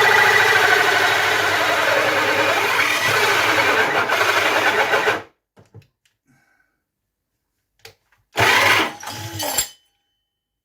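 Cordless drill running under load for about five seconds, then stopping abruptly. After a short silence it runs again briefly, for about a second.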